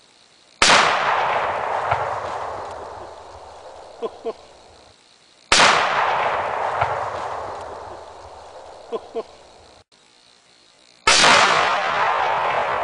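Rifle shot setting off a one-pound Tannerite charge: a sudden blast followed by a long rolling echo that dies away over about four seconds, heard three times, the same explosion each time.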